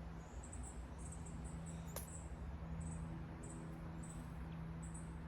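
Insects chirping: short, very high-pitched trills repeating every second or so, over a steady low hum. A single sharp click sounds about two seconds in.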